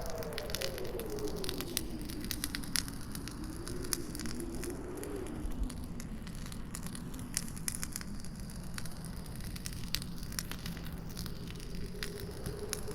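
Campfire crackling with frequent sharp pops, over a howling wind whose low moaning pitch wavers down and up, fades about halfway through, and comes back near the end.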